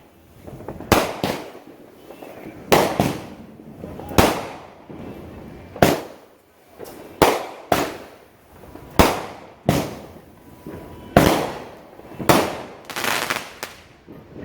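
Consumer fireworks going off in a steady series of loud bangs, about one every second or so, each with a short echoing tail.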